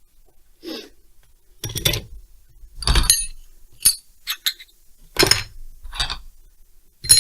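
Metal tools and small engine parts clinking and tapping against each other: a series of separate sharp clinks, some with a short bright metallic ring.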